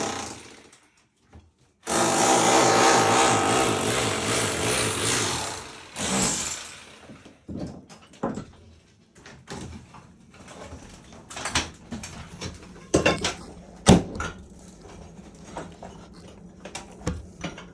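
A power tool runs loudly for about four seconds during bathroom demolition, with a second short burst just after. It is followed by scattered knocks and clatter as material is broken and pulled loose, with two louder hits near the end.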